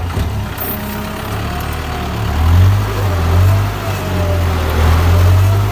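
Kubota tractor's diesel engine running steadily under ploughing load, getting louder about two seconds in.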